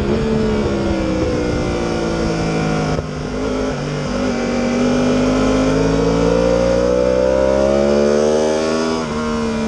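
Yamaha R1's inline-four engine running hard on track. Its pitch sinks for about three seconds as the bike slows, then climbs steadily under acceleration for about five seconds, and drops abruptly near the end at a gear change.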